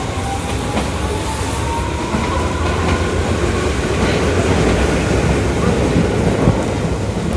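Electric commuter train on the Tokyu Toyoko Line running at speed, its motor whine rising in pitch as it accelerates, over a steady rumble of wheels on rail with occasional rail-joint clicks.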